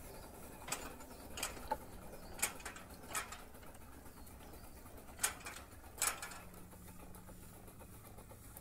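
Faint, irregular mechanical clicks and knocks, about seven of them spaced half a second to a second apart and then stopping, over a low steady hum.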